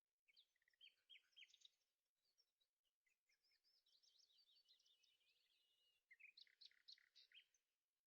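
Faint birdsong: groups of quick high chirps and a rapid trill in the middle.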